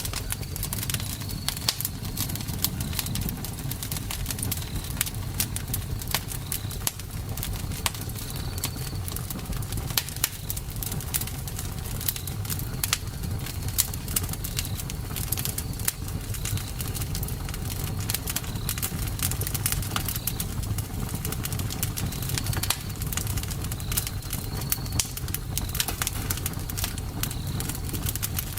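Wood fire burning, with frequent sharp crackles and pops over a steady low rumble. Short high chirps repeat every second or two in the background.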